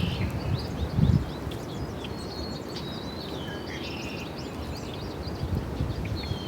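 Small birds chirping and twittering, with many short calls and a few downward-sliding whistles. A brief low rumble comes about a second in.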